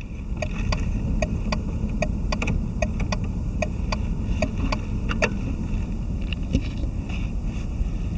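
Volkswagen Touareg's 3.2-litre VR6 (BMV) engine idling with a steady low rumble, over which a sharp tick repeats about twice a second.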